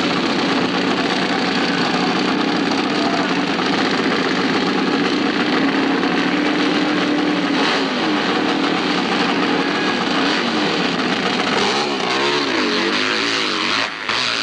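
Hillclimb motorcycle engine running loud and steady. From about two-thirds of the way in, its pitch swings up and down again and again as the throttle is worked.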